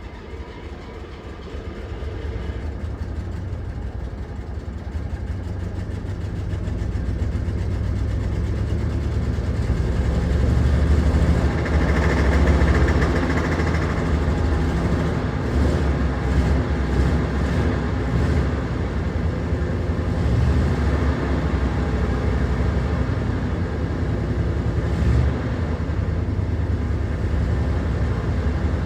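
Heavy diesel engine running, growing louder over the first ten seconds or so and then running steadily.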